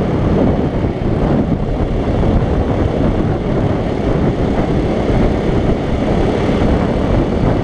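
Wind buffeting the microphone of a camera on a moving motorcycle, a steady loud rush mixed with the motorcycle's engine and exhaust.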